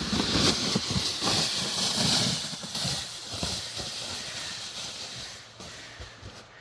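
A sled sliding down a snowy slope: a steady hiss of the sled on the snow, loudest over the first two to three seconds and then fading away.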